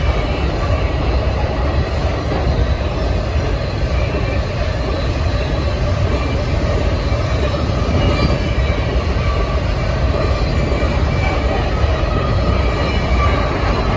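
Covered hopper cars of a potash freight train rolling past: a steady, loud rumble of steel wheels on the rails, with brief faint squeals coming and going.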